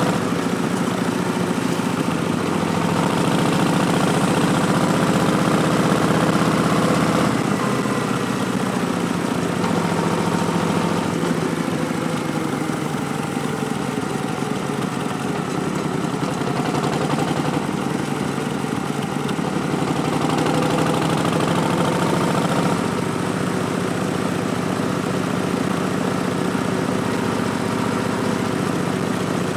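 2019 Harley-Davidson Street Bob's Milwaukee-Eight V-twin running through Vance & Hines Twin Slash slip-on exhausts, with a Stage 1 intake, while riding. The exhaust note rises and falls with the throttle and changes step a couple of times, over a steady rush of wind noise.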